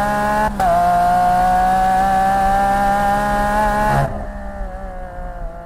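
Lamborghini Aventador LP 780-4 Ultimae's naturally aspirated V12 running at high revs through the exhaust, its pitch climbing slowly, with a short break about half a second in. Near the end the level drops sharply and the revs fall away.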